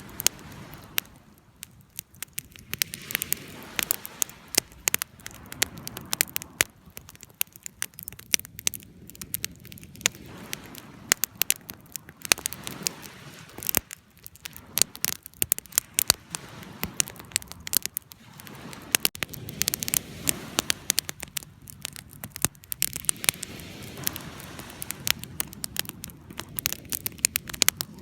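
Wood fire crackling and popping, with irregular sharp snaps over a low, steady rumble of burning.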